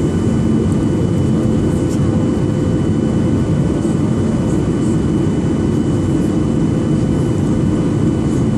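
Steady cabin noise inside a Boeing 737-800 airliner: the jet engines and airflow make a loud, even rush, with a few steady hums running through it.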